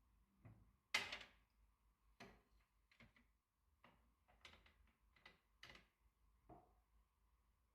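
A string of about a dozen short, soft knocks and clicks, the loudest about a second in.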